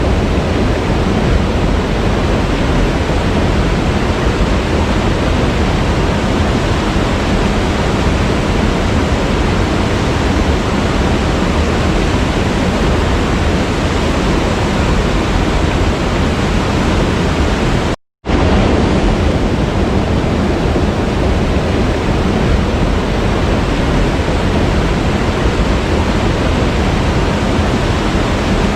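Waterfall running with a steady, full rushing sound, heaviest in the low end. It breaks off completely for a fraction of a second about two-thirds of the way through, then resumes unchanged.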